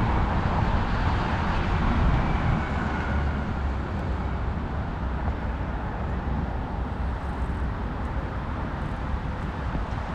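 City traffic and road noise with a steady low wind rumble on the microphone, heard from a bicycle riding along the street.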